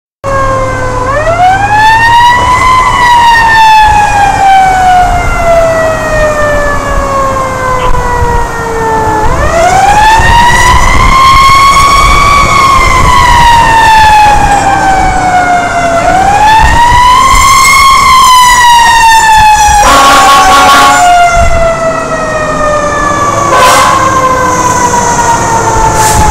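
Fire engine siren in wail mode, rising quickly then falling slowly, three times, over the truck's engine rumble. Short blasts of a second, harsher tone come over it near the end.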